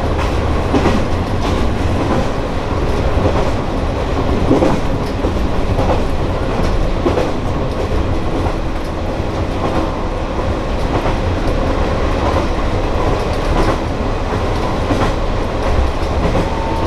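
Kanto Railway Joso Line diesel railcar heard from inside the car while running at speed: a steady low engine and running drone, with the wheels clacking over rail joints at irregular intervals.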